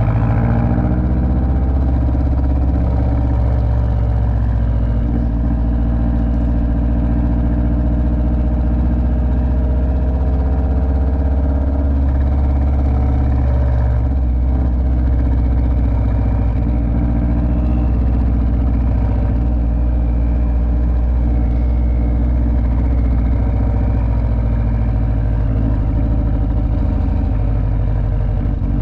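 Subaru STI's turbocharged flat-four engine droning steadily while cruising, with low engine tones dominant and its pitch shifting in the first couple of seconds.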